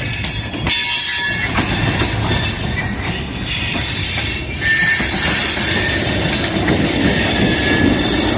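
Railroad cars rolling on the track, their steel wheels squealing against the rails, with clicking from the rail joints. The sound gets louder about five seconds in.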